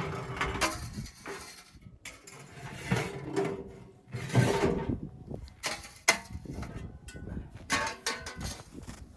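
Irregular crunching and creaking strokes about one to two seconds apart, with a few short squeaky tones near the end.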